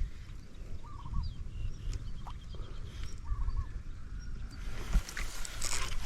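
Small birds chirping in short repeated calls, over low rumbling thuds, with a louder hissing rustle for about a second and a half near the end.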